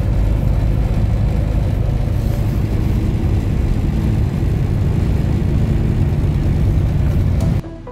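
Steady engine drone and road noise of a semi-truck at highway speed, heard inside the cab. It cuts off suddenly near the end.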